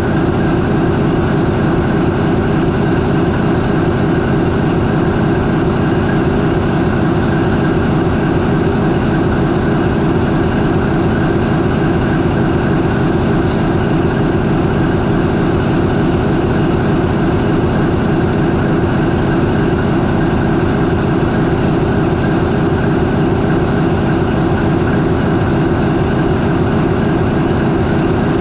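MAN 20V28/33D STC twenty-cylinder V diesel marine main engine idling steadily at about 400 RPM, loud and unchanging.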